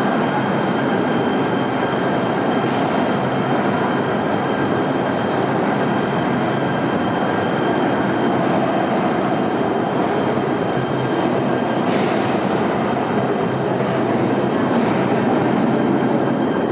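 LA Metro light rail train running steadily: a constant rumble with a thin steady high whine on top, and one short sharp click about twelve seconds in.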